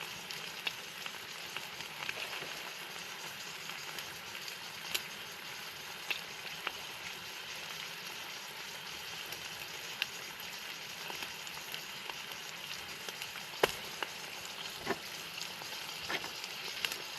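Steak frying in coconut oil in a pan on an MSR camp stove: a steady sizzle with scattered pops and crackles, one sharper pop about fourteen seconds in.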